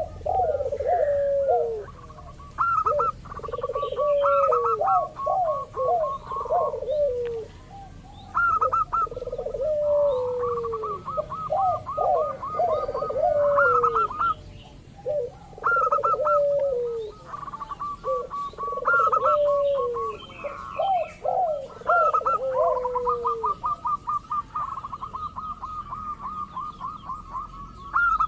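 Zebra doves (perkutut) singing: overlapping rolling coo phrases that fall in pitch, repeated every few seconds, with a faster, higher rapid series of notes running alongside them.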